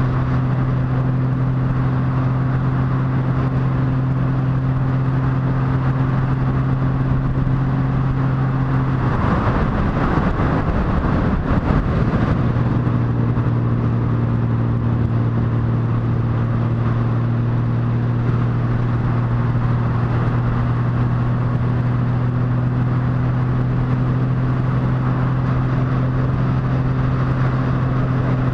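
Motorcycle engine running at a steady cruising speed over a constant rush of wind noise. About nine seconds in, the steady engine note breaks up for about three seconds, then settles back into a steady drone.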